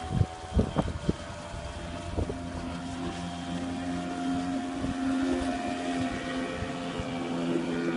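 HDX 4 hp outboard motor running steadily on a small boat, with a few sharp knocks in the first second or so.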